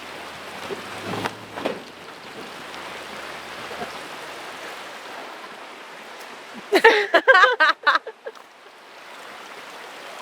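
Steady rush of a flowing river. About seven seconds in, a brief burst of a voice or call breaks in.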